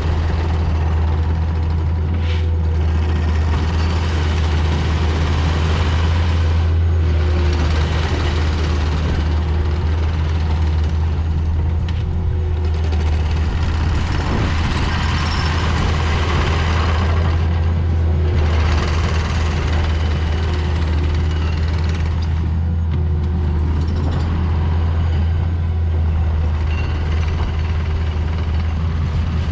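Heavy diesel engine running steadily with a strong low hum, under constant load.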